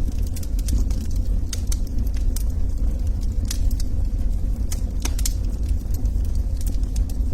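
Wood fire crackling: scattered sharp snaps and pops over a steady low rumble of flames.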